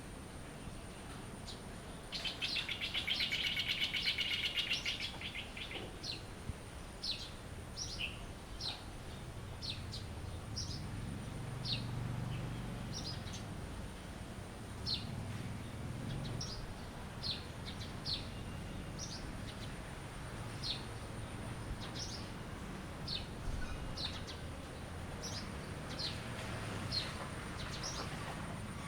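Songbirds chirping: short high downward-sliding chirps repeating about once or twice a second, with a loud rapid trill from about two to five seconds in.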